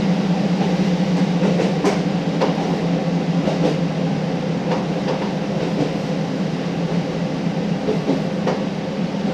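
KiHa 40 diesel railcar running along the line: a steady low engine drone, with the wheels clicking over rail joints every second or so at uneven gaps.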